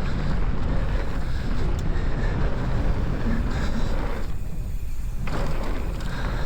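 Mountain bike descending a dirt trail at speed: a steady rush of wind buffeting the microphone over tyre and trail noise. The higher hiss drops away for about a second just past the middle.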